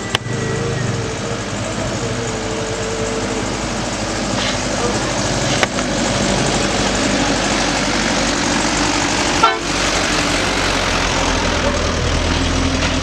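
Vehicle engine running hard on a steep uphill climb, with a car horn sounding in the first few seconds and a few sharp knocks.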